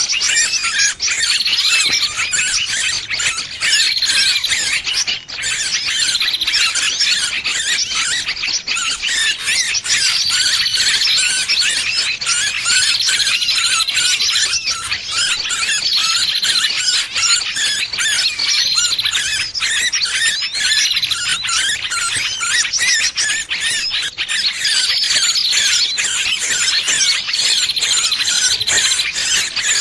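Distress squeals and chatter of a trapped small bird, a continuous shrill, frantic racket with short falling notes repeating every couple of seconds; a bird-trapping lure call meant to draw other small birds in.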